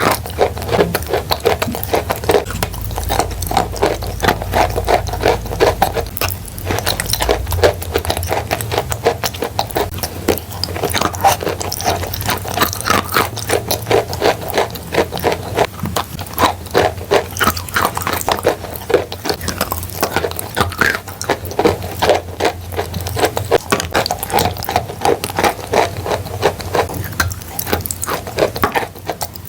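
Close-up crunching of chalk coated in clay paste: a continuous run of small, quick cracks and crumbling crunches.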